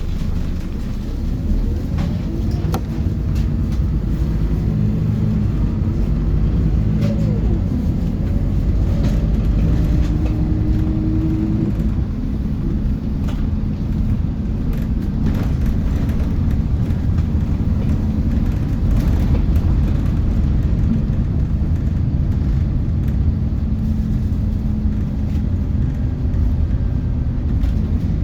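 Inside a Scania Lahti Scala K230UB city bus on the move: the rear-mounted diesel engine's steady low rumble mixed with road noise. The engine note rises a few times in the first half, and there are short interior rattles and clicks.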